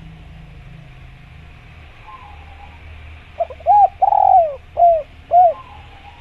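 Spotted dove (tekukur) cooing: one phrase of about five arched coos a little over three seconds in, the middle coo the longest. A faint steady hiss and low hum lie underneath.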